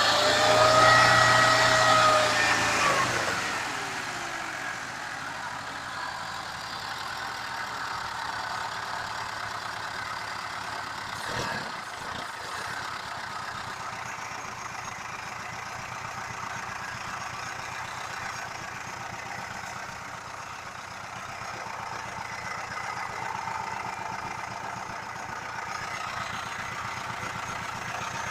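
The ZAZ-968 Zaporozhets's air-cooled V4 engine, revved at the start, its pitch falling back over about three seconds to a steady idle. There is a single brief knock about eleven seconds in.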